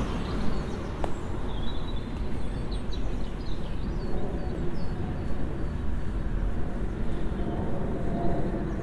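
Open-air ambience: a steady low rumble of background noise, with small birds chirping briefly several times.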